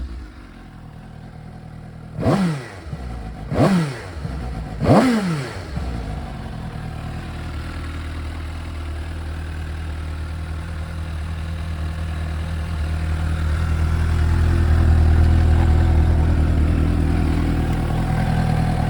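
Suzuki GSX-S750's inline-four engine blipped three times in quick succession, each rev rising and dropping straight back, then settling into a steady idle that gets louder past the middle. It revs up cleanly, a sign of an engine in good running order.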